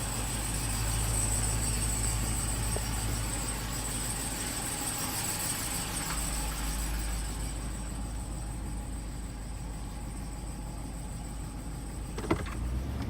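2018 Ram 2500's 6.4 L Hemi V8 idling in neutral after sitting cold, with a steady high-pitched whine over the low engine hum: the cold-start squeak or chirp this truck makes on cold mornings. A single sharp click near the end.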